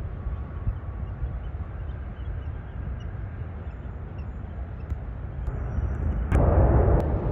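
Outdoor rumble of jet aircraft noise at an airport, low and steady, that jumps suddenly louder and fuller near the end.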